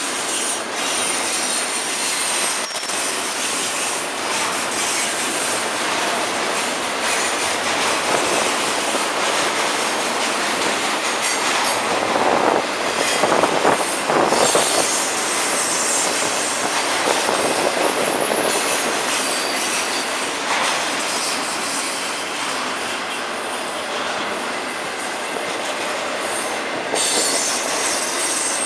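Double-stack intermodal freight cars rolling past on the rails: a steady, loud rumble and clatter of wheels, with high-pitched wheel squeal coming and going a few times.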